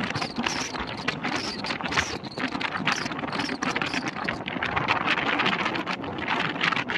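Passenger express train running at speed, heard from an open carriage window: wind rushing past the microphone over the rumble of the coaches, with irregular knocks and clatter from the wheels on the track.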